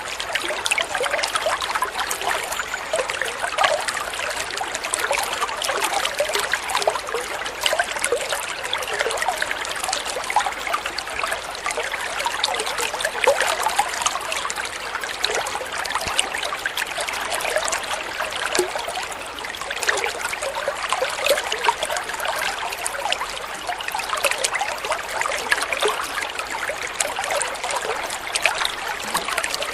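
Flowing water trickling and splashing steadily, with a continuous dense patter of small droplet splashes.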